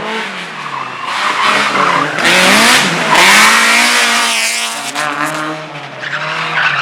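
Race car engine revving hard and dropping back again and again through a slalom, with tyres skidding; a loud surge of tyre noise about two seconds in lasts over a second.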